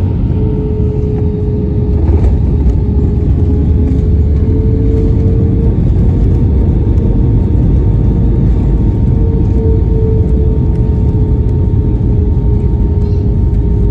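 Airbus A320 cabin noise during landing: a loud, steady low rumble with an even engine hum.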